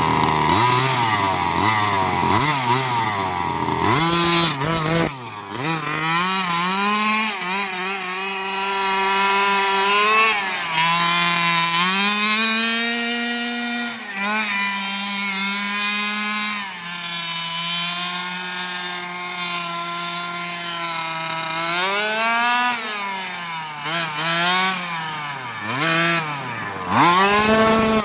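Redcat Rampage XR Rally's 30cc two-stroke gas engine with a JetPro tuned pipe, revving up and down as the throttle is worked. There are quick blips in the first few seconds and again near the end, with a longer stretch held at high revs in between.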